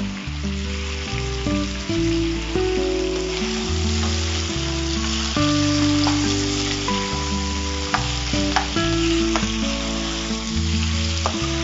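Chicken pieces with shallots and dried red chillies sautéing in hot oil in a frying pan, a steady sizzle, with a spatula stirring and scraping the pan now and then. Background music with sustained low notes plays underneath.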